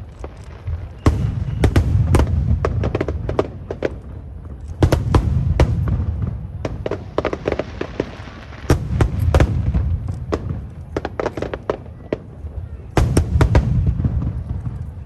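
Aerial firework shells bursting in waves, each a deep boom followed by many sharp cracks and crackles; fresh waves come in about 1, 5, 9 and 13 seconds in.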